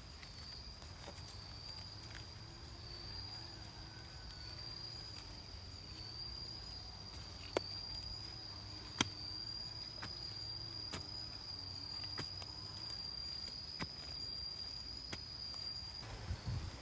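An insect's continuous high-pitched trill, steady with a slight waver, that stops near the end. A few sharp clicks and taps sound over it, two louder ones in the middle.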